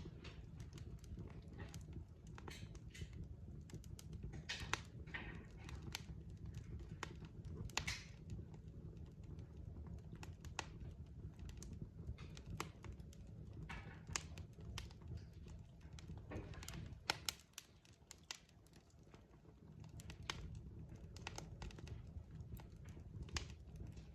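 Wood fire crackling in a fireplace: irregular sharp pops and snaps over a steady low rumble of the flames, with a louder cluster of pops about 17 seconds in, after which the rumble briefly drops away.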